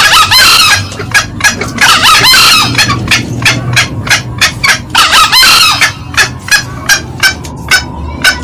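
Green junglefowl calling: three short crows, at the start, about two seconds in and about five seconds in, over a steady run of quick clucking notes, several a second, with a low hum underneath.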